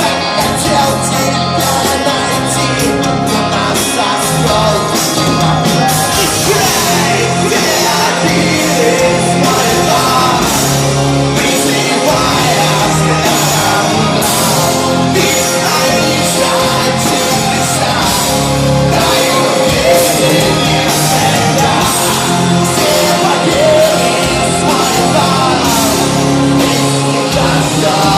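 Loud rock music with a singer, the vocals partly shouted.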